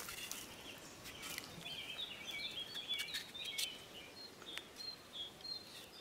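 Small birds chirping and twittering faintly in short wavering notes, over quiet outdoor ambience, with a few faint clicks.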